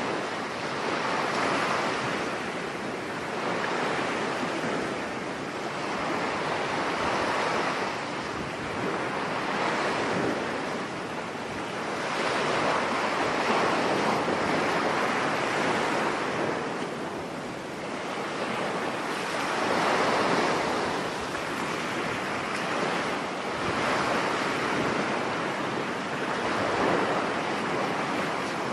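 Surf on a stormy sea: waves break on the beach and wash back, the rush swelling and fading every three or four seconds, with wind blowing over the microphone.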